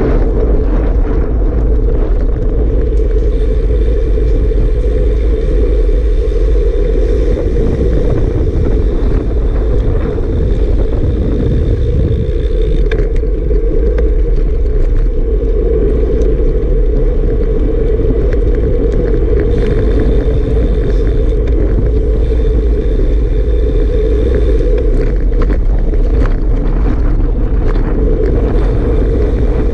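Strong wind buffeting the microphone over a steady vehicle rumble, loud and unbroken throughout.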